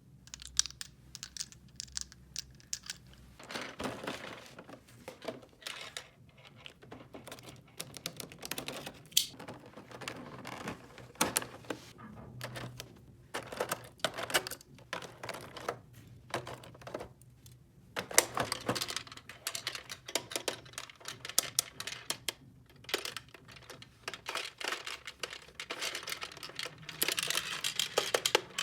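Small plastic toy pieces being handled: irregular clicking, tapping and rattling with some crinkling, busiest near the end.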